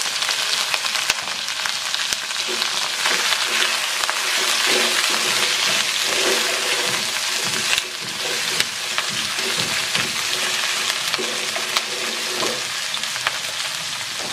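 Beef trimmings frying with onion and garlic in a nonstick wok: a steady sizzle with scattered crackling pops. A spatula stirs and scrapes across the pan at irregular intervals.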